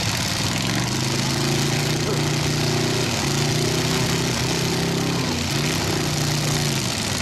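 Demolition derby truck engines running hard under load, the engine note rising and falling in steps every second or so as they throttle up and ease off, over a steady noisy background.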